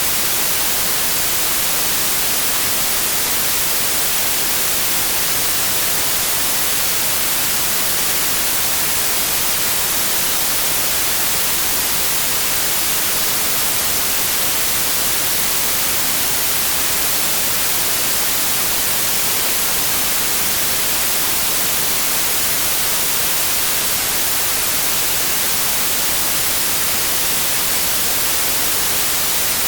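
Synthetic white noise: a steady, even hiss across the whole range, with no change throughout.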